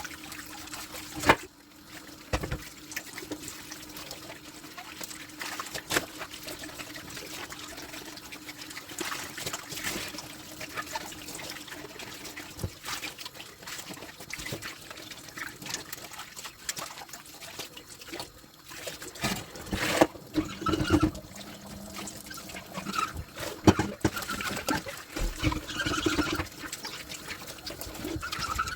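Tap water running and trickling into a sink while dishes are washed, with a few sharp clinks and knocks of dishware, the loudest about a second in.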